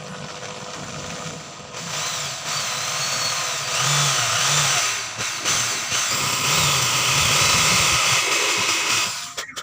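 A handheld power tool running and cutting or grinding, with a whine that dips and rises as the load changes. It picks up about two seconds in and stops just before the end.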